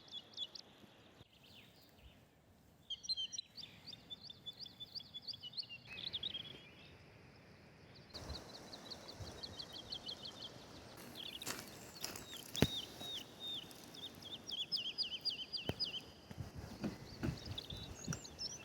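Wild songbirds singing in spring woodland: repeated phrases of quick, high, downward-slurred notes, a few seconds per phrase, over faint outdoor background noise. There are two sharp clicks in the second half.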